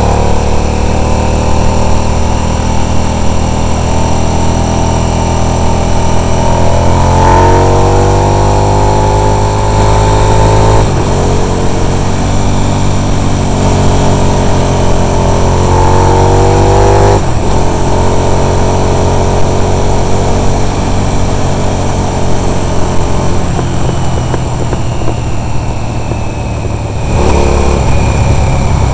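Racing motorcycle's engine heard from on board at race speed: its pitch climbs and then drops sharply at the upshifts, twice, and it eases off briefly near the end before pulling hard again.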